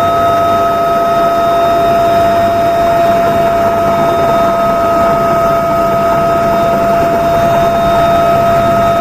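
Helicopter turbine engines running at a steady, loud whine over a rush of noise, one high tone and its octave held unchanged.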